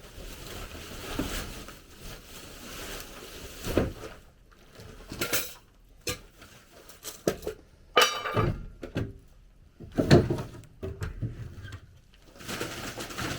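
Irregular knocks and clinks of hard objects being handled and set down, a few louder clatters among them.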